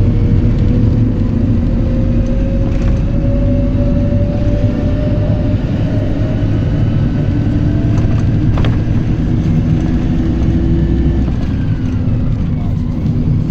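PAZ-320405-04 "Vector Next" bus driving, heard aboard: a steady low engine and road rumble, with a faint whine rising slowly in pitch over the first half as the bus picks up speed. There is a single sharp click about eight and a half seconds in.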